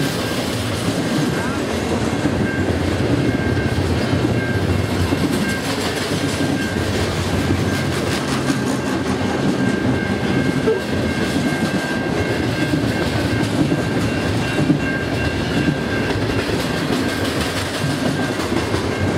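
Double-stack container train's well cars rolling past close by: a steady rumble of steel wheels on the rails, with a faint high whine running through it.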